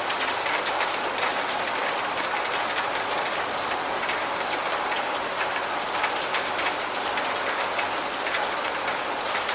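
Steady heavy rain: a dense, even hiss with scattered drop ticks.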